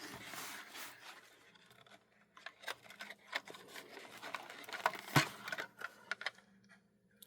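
Hands turning over and handling a plastic HO-scale model locomotive: faint rubbing and scraping with scattered small clicks and taps, one sharper tap about five seconds in.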